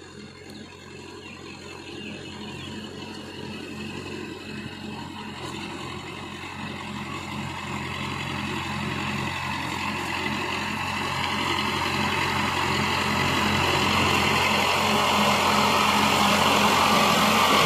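Massey Ferguson 265 tractor's three-cylinder diesel engine running steadily under load, growing steadily louder through the whole stretch.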